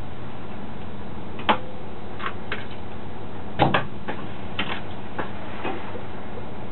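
Cab of an Alstom LINT 41 diesel railcar rolling slowly: a steady running hum with irregular sharp clicks and knocks, two of them close together about halfway through.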